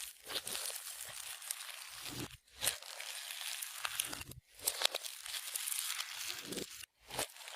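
Clear slime being worked by hand, with sticky crackling and small pops. Several abrupt breaks where the sound drops out for an instant.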